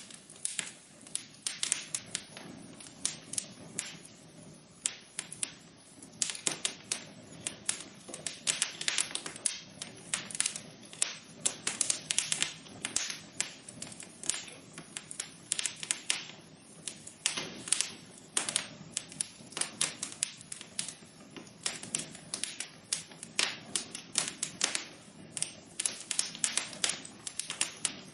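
Wood fire burning in a fireplace: steady crackling with dense, irregular sharp pops over a soft low rush of flame.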